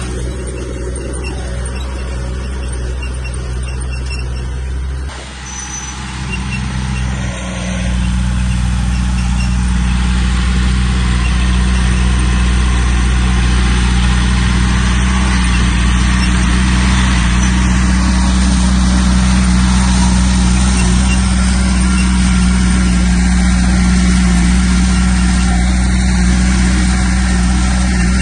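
Heavy diesel engine of earthmoving machinery running steadily, easing off briefly about five seconds in, then picking up and holding louder under load.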